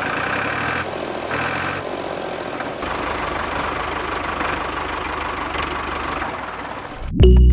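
Small motor of a homemade model tractor running with a whirring, rattling noise, pulsing on and off at first and then running steadily. Loud music starts abruptly near the end.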